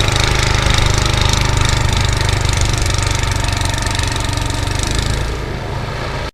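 Single-cylinder Tecumseh HM80 8 hp engine of a 1988 Ariens ST828 snowblower running steadily. It drops a little in level about five seconds in, and the sound then cuts off suddenly.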